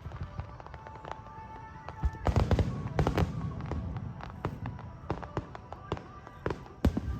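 Fireworks bursting in the sky: a dense flurry of bangs and crackle about two to three seconds in, then scattered pops and a single sharp bang near the end. Music plays alongside.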